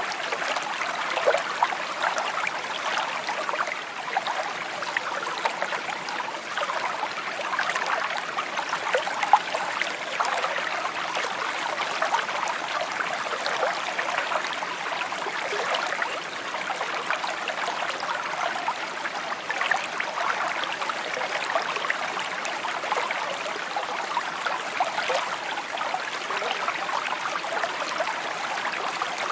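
A shallow stream trickling and babbling steadily over stones, a dense bright burble with many small splashes.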